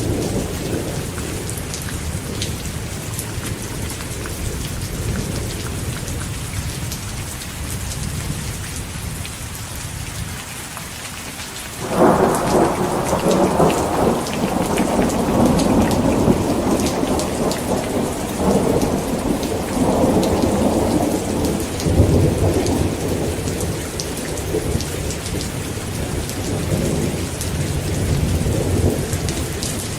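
Heavy rain falling steadily, with a sudden crack of thunder a little before halfway that turns into a long rumble, swelling again a couple of times before fading back under the rain.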